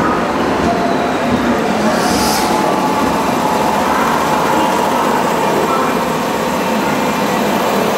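JR West 103 series electric multiple unit running slowly along the platform, with a steady noise of wheels and running gear. A short hiss comes about two seconds in.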